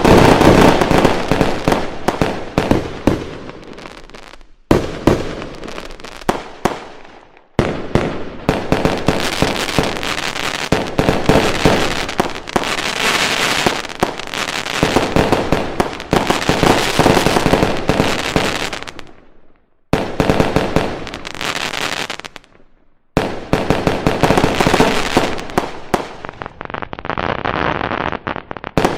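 Fireworks going off in quick succession: a dense run of bangs and crackling that stops abruptly and starts again several times.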